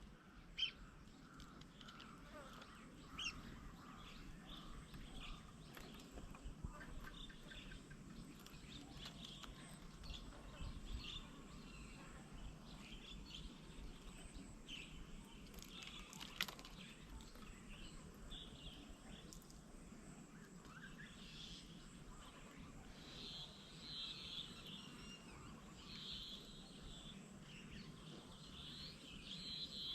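Faint birdsong: assorted small birds chirping and calling in short high notes, with a busier run of chirps in the last several seconds, over a low steady background hum.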